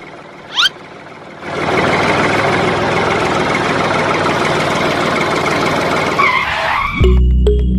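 A mini tractor's motor running steadily for about five seconds, starting about a second and a half in. A brief rising whistle comes just before it.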